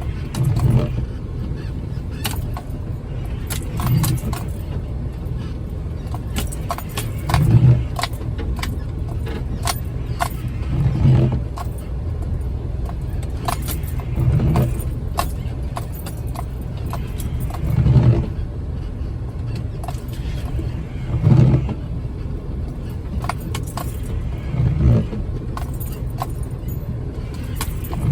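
Jeep Wrangler driving slowly over a rough snowy trail, heard from inside the cab: a steady low rumble of engine and drivetrain that swells about every three and a half seconds, with frequent sharp rattles and clicks as the Jeep jolts over the ground.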